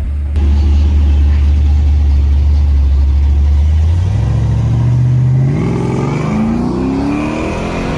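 Car engine running steadily, then accelerating from about four seconds in, its pitch climbing in steps.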